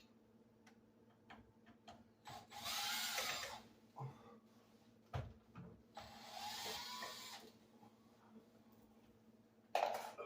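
Cordless drill-driver running in two short runs of about a second each, its pitch rising and falling, backing out the screws that hold a dishwasher door's hinge parts. Clicks and knocks of handling come between the runs, with a sharp knock near the end, the loudest sound.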